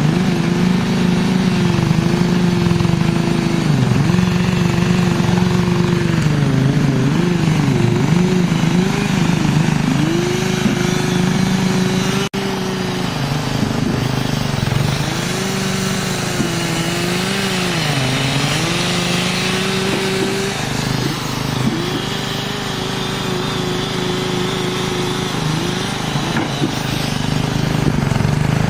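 A motor-driven machine running continuously, its pitch dipping and recovering again and again, as an engine does when it bogs under load and picks back up. There is a brief break about 12 seconds in.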